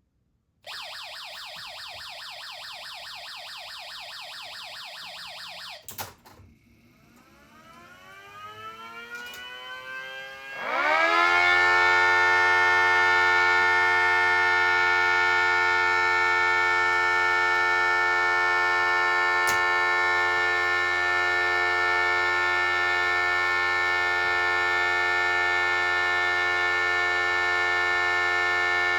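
A rapid pulsing buzz for about five seconds, then a click. Model 5T and 2T warning sirens then wind up together, their pitch rising for about four seconds, and hold a loud, steady chord of several tones as a one-minute alert.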